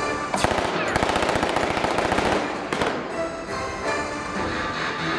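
A rapid burst of loud popping like machine-gun fire, lasting about two seconds: staged gunfire effects in a live stunt show, over the show's music.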